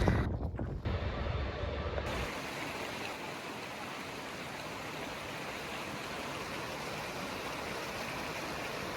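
Rushing water from a waterfall or forest stream, a steady even rush. A low rumble underlies the first two seconds, then stops.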